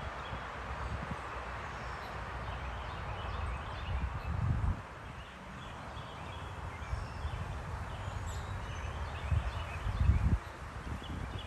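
Small backyard birds chirping with short, scattered calls over a steady outdoor hiss, broken by low rumbling thumps, the loudest about four seconds in and around ten seconds in.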